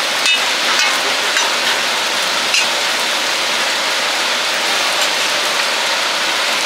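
Egg batter and oil sizzling steadily on a flat griddle as oyster omelettes fry, with a few faint clicks in the first few seconds.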